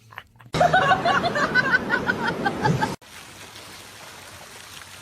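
A person laughing hard in quick repeated bursts, cut off abruptly about three seconds in, followed by a steady hiss.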